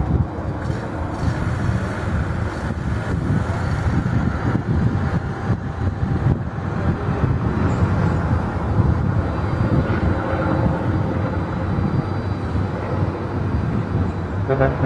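Jet airliner engines running, a steady rumble with a faint whine.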